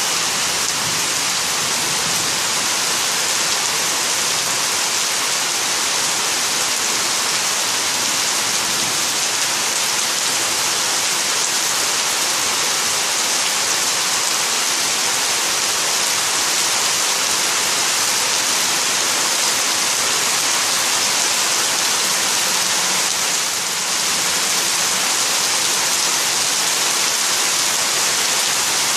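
Heavy rain pouring steadily: a dense, even hiss that eases slightly for a moment near the end.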